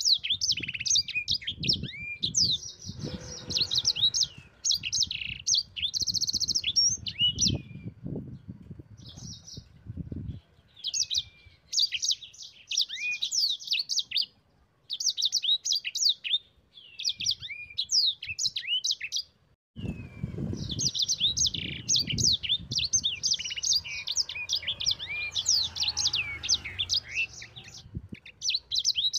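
Sanger songbird singing in long bouts of rapid chirps, sweeps and trills, high-pitched, broken by a few short pauses. A low rumble runs under the song for much of the time.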